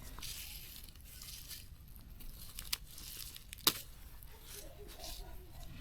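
Rustling and tearing of plants handled by hand, as when pulling weeds or picking greens, with two sharp snaps about a second apart, the second louder.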